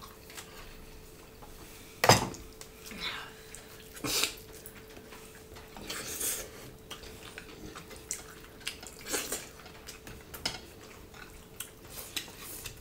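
Eating at a table: scattered clicks, smacks and knocks of hands eating rice from ceramic plates and bowls, with the loudest knock about two seconds in, over a faint steady hum.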